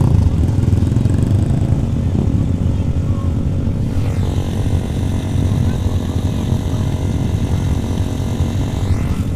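Motorcycle engine running at a steady, even pace.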